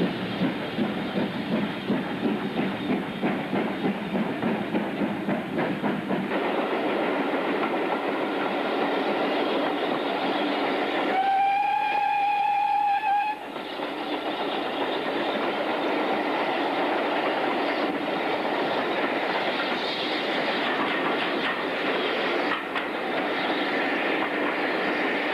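A heritage railway train running on the line, with a rapid rhythmic beat at first that settles into a steady rumble. About halfway through, a single-note whistle sounds for about two seconds.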